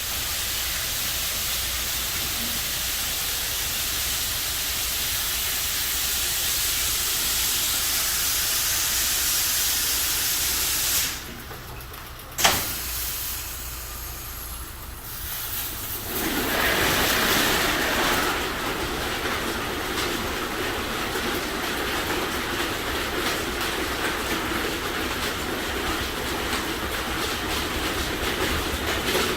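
Belanger FreeStyler automatic car wash running: a steady high-pitched hiss of water spray cuts off about eleven seconds in. A sharp knock follows about a second later. A few seconds after that a fuller, deeper rushing spray starts up and keeps going.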